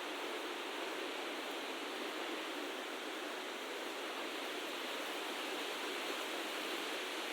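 A steady, even rushing noise with no separate events or changes.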